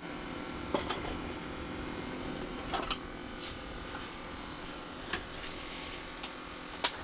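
A steady mechanical hum made of several held tones, with a few light clicks about a second in, near the three-second mark and near the end.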